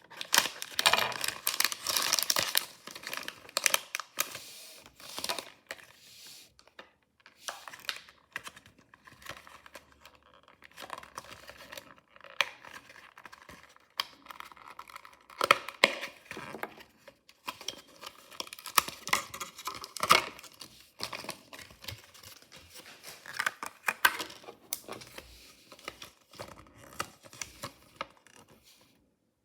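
Mystery toy packaging being handled and opened: irregular crinkling and tearing in bursts, with small clicks and brief pauses.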